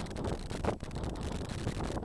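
Wind noise buffeting the microphone outdoors: an uneven low rumble with no clear tone.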